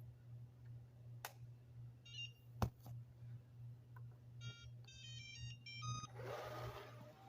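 Robot vacuum giving a short electronic beeping melody of quick stepped tones after a couple of clicks, then a brief rush of noise near the end as it starts up. A faint steady low hum runs underneath.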